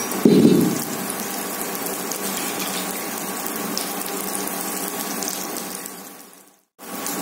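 Tomatoes, dried red chillies and curry leaves frying in a pan on an induction cooktop: a steady sizzle with fine crackles. A short louder low-pitched burst comes just after the start, and the sound drops out for a moment near the end.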